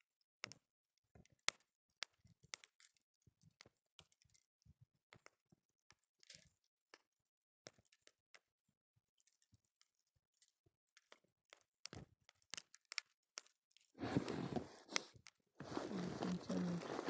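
Wood campfire crackling with scattered sharp pops and snaps. About fourteen seconds in, a continuous rustling and crunching starts up and runs on, louder than the crackle.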